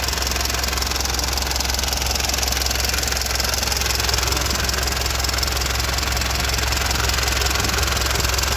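Toyota 14B four-cylinder diesel engine running at a steady, unchanging speed.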